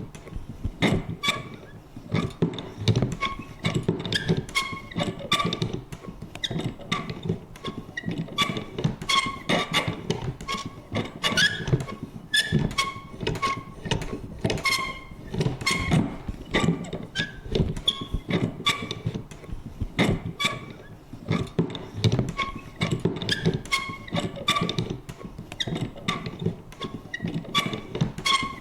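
Vintage paper punch worked over and over: a steady run of clunks, about two or three a second and unevenly spaced, each with a short metallic creak or squeak from the punch's lever and spring.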